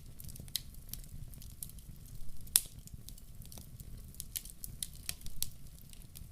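Log fire in a wood-burning stove crackling, with irregular sharp pops over a low rumble of the burning; one loud pop about two and a half seconds in.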